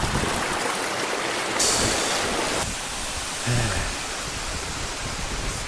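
Steady rushing hiss of a mountain stream flowing over rocks. It grows brighter and louder for about a second near the middle of the first half, then settles lower.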